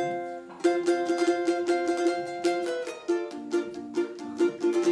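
Instrumental introduction of a song on an acoustic plucked string instrument: a chord struck, then quick, evenly repeated picked notes, changing to a new chord about three seconds in.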